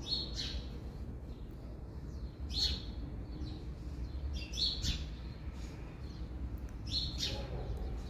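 Small birds chirping: four short, high chirps about two seconds apart.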